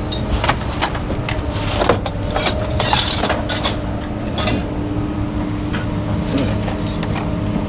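A broom sweeps leftover scrap debris out of a truck bed in irregular scraping strokes, with small pieces clicking and clinking. Under it runs the steady hum of an idling engine.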